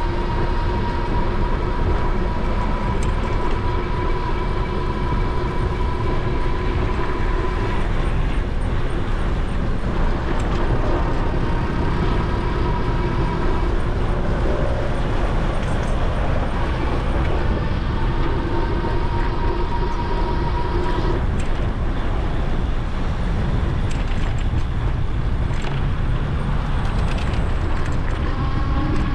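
Wind rushing over the microphone while riding an e-bike, with the electric motor's thin whine creeping up in pitch, cutting out and coming back several times.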